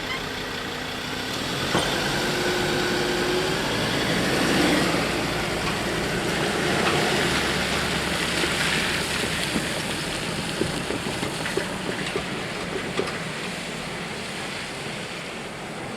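Green Cargo freight train rolling past, a steady rumble and rush of steel wheels on rails. A run of sharp wheel clacks comes from about ten to thirteen seconds in.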